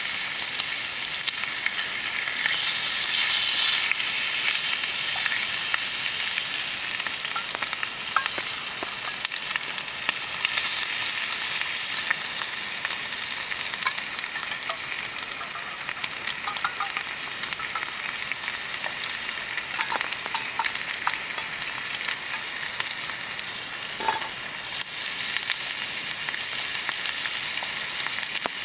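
Food frying in a hot pan over a campfire: a steady sizzle with scattered small pops and crackles, a little louder a few seconds in.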